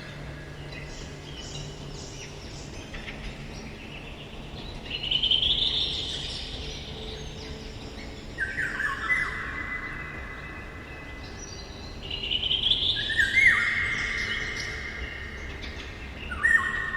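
Forest birdsong, including a Eurasian golden oriole: short whistled and trilled phrases that come back every few seconds, several of them loud, over quiet woodland ambience.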